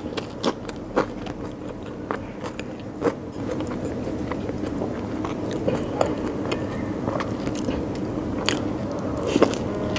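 Close-up eating sounds: a person chewing a mouthful of rice and curry, with many short wet mouth clicks and smacks. A steady low hum runs underneath and gets a little louder about three and a half seconds in.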